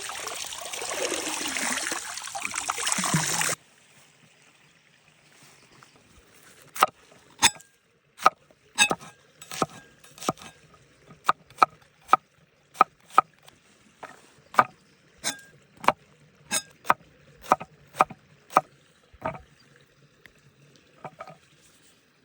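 A knife chopping vegetables on a cutting board, sharp separate strokes about two a second that stop and start now and then. Before that, a loud rushing noise cuts off suddenly.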